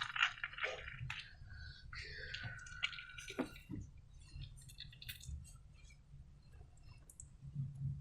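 Slime being squished and pulled by hand: soft, irregular wet squelches and sticky clicks, with a drawn-out falling squeak about two seconds in.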